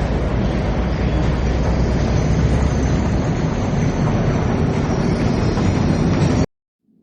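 Loud, steady mechanical rumble of an industrial ambience, dense and heaviest in the low end, which cuts off abruptly about six and a half seconds in. A faint low drone begins just before the end.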